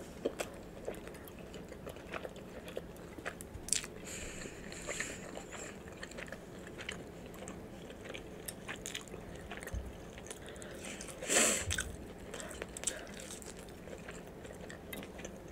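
Close-up chewing of a mouthful of cheeseburger: soft wet mouth clicks and smacks, with a louder smack about eleven seconds in.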